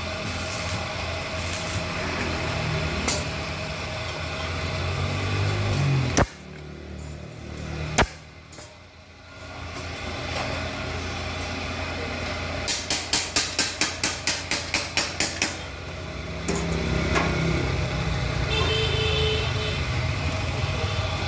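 Workshop machine running with a steady low hum, cut by two sharp knocks and then a quick run of about a dozen hammer blows, roughly four a second; the hum grows louder again near the end.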